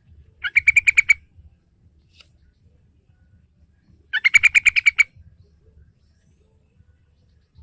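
Sooty-headed bulbul (trucukan) giving two short bursts of rapid chattering notes, about three and a half seconds apart, used as a lure call.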